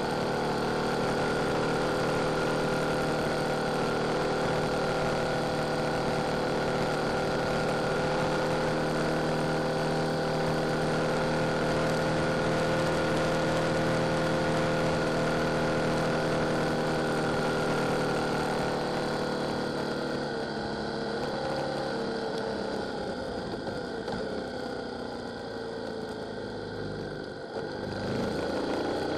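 Yamaha Tracer 7's 689 cc parallel-twin engine running steadily at road speed, with wind and road noise. About two-thirds of the way through the throttle is closed and the engine note falls as the bike slows. Near the end the pitch rises sharply as it picks up again.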